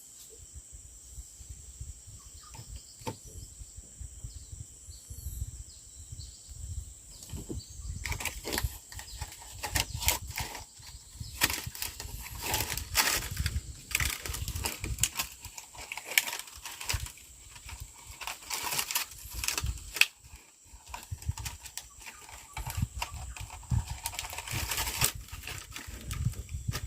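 Irregular rustling, crackling and knocking close to the microphone, thickest from about eight seconds in, over a steady high drone of insects.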